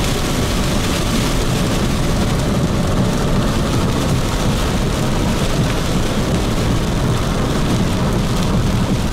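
Heavy rain beating on a car's roof and windshield, heard from inside the cabin: a steady hiss over a low rumble.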